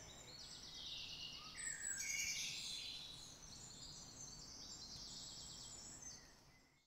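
Songbirds singing faintly: several high trills of quick repeated notes and short whistled phrases, overlapping, fading out near the end.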